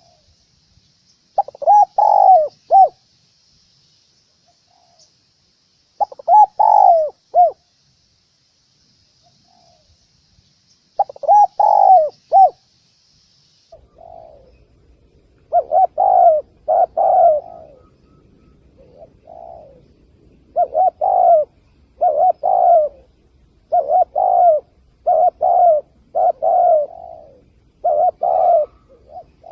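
Spotted dove cooing: its repeated coo-croo phrases, three spaced a few seconds apart, then, after a change in background about halfway through, coming in quick succession about once a second. A call played to lure spotted doves to a trap.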